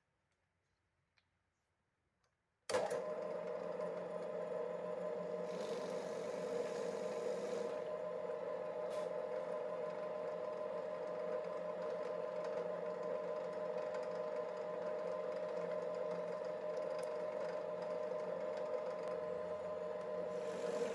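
A power tool's electric motor starts abruptly about three seconds in and then runs steadily with an even hum.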